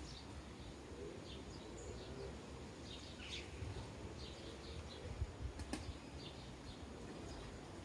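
Sparrows chirping faintly: scattered short chirps over a low background rumble, with a single sharp click a little before six seconds in.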